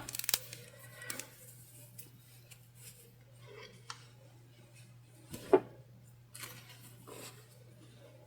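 Quiet handling of fabric and sewing tools: soft rustles and a few small clicks, with one sharper click about five and a half seconds in, over a steady low hum.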